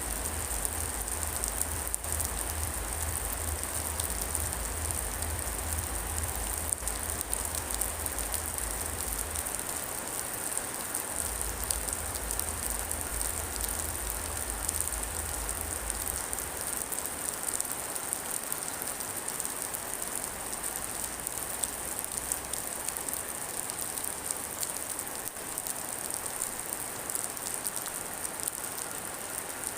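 Steady rain falling, an even hiss of drops pattering on a surface. A low rumble underneath dies away about halfway through.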